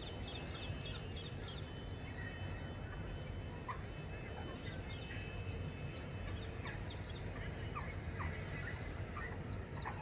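Birds giving short, scattered chirps and calls, over a steady low background rumble.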